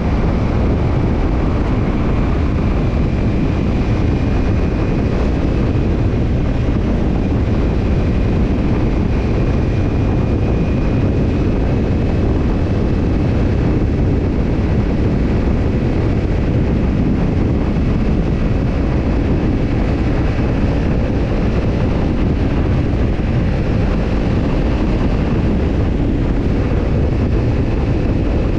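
Kawasaki Ninja 250's parallel-twin engine running through a BEET NASSERT Evolution Type II titanium slip-on muffler at a steady cruise, with wind rush. The level stays even, with no revving or gear changes.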